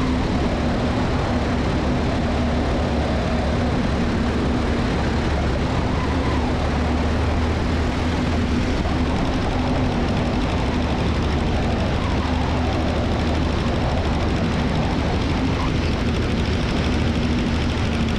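Aeronca 7AC Champ's light-plane engine and propeller running steadily with power on during final approach to landing.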